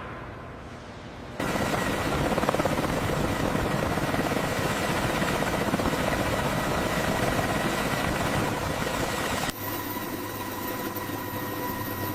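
A fading low tail for about the first second and a half, then heavy-lift helicopter rotors and turbine engines start abruptly and run steadily, with a faint steady whine. The helicopter is a CH-53K King Stallion, and the sound comes just before it takes the hover. About three seconds before the end the low rotor noise drops and the sound becomes thinner.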